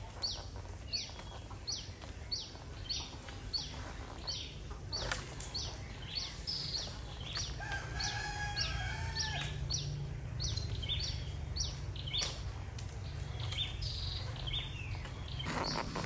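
A bird repeating a short, high, falling chirp about twice a second, with a rooster crowing once around the middle. A steady low rumble runs underneath.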